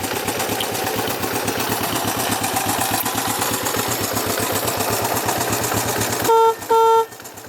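1967 Honda CB450's twin-cylinder engine idling steadily, then the bike's electric horn beeps twice, two short loud blasts near the end.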